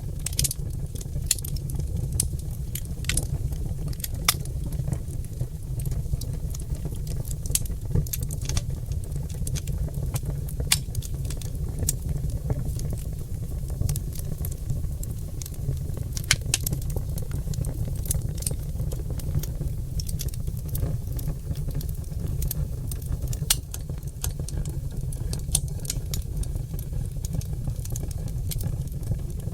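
Oak logs burning in a fireplace, crackling and popping with frequent irregular sharp snaps over a steady low rumble of the fire.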